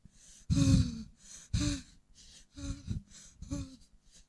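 A woman's voice moaning in four short, separate cries, each falling in pitch, with quiet gaps between them.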